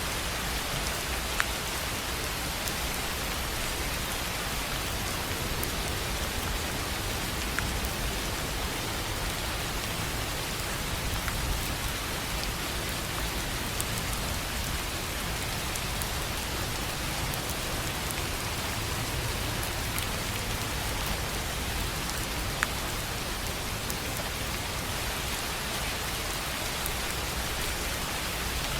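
Steady rain falling on a tin roof: an even hiss with scattered sharper drop ticks.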